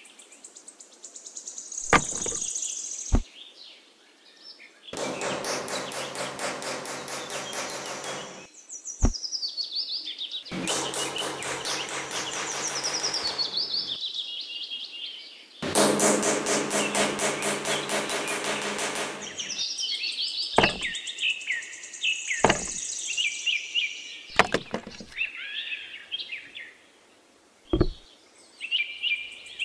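Birds chirping against a steady outdoor background. About seven sharp knocks of wooden craft sticks being set down on a hard base are scattered through it, and three rasping buzzes of a few seconds each come in the middle.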